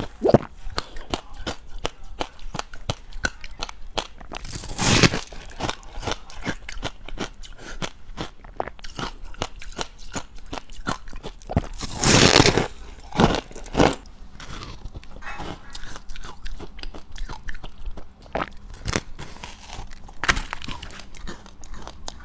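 Close-up crunching and chewing of dry, powdery white ice (freezer frost): a steady run of fine crackles, with louder bites about five seconds in and again around twelve to fourteen seconds.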